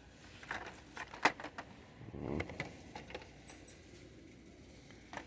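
Scattered light clicks and soft plastic rustling of blister-packed die-cast toy cars being handled on a store display, with a short rustle about two seconds in.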